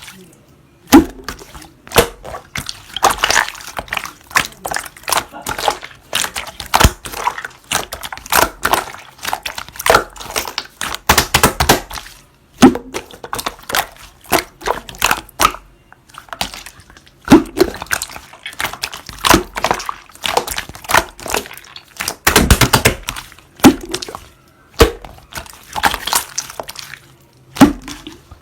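Yellow mango jelly slime being squeezed and worked by hand: a dense run of wet clicks, pops and squelches in clusters with short pauses between them.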